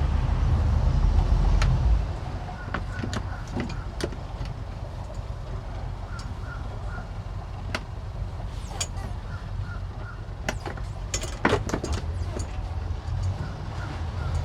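Boat engine running low, eased back about two seconds in and then idling steadily, with scattered sharp clicks and knocks over it, densest about eleven seconds in.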